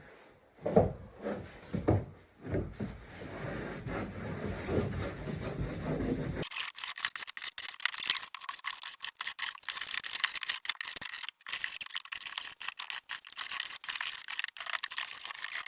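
Cleaning a wooden floor by hand: a rag wiping and rubbing over dusty floorboards in irregular strokes with occasional knocks. About six and a half seconds in, the sound switches abruptly to a thin, rapid, scratchy scrubbing.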